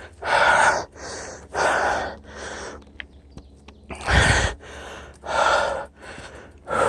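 Hard, rhythmic breathing of a mountain biker winded from climbing: a loud exhale roughly every second with softer inhales between, one breath a little past the middle loudest and rumbling on the microphone.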